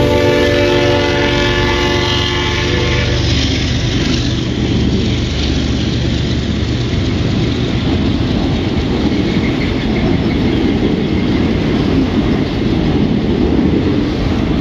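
Freight train passing close by. A diesel locomotive's horn sounds for about the first three seconds, then the steady rumble and wheel clatter of autorack cars rolling past take over.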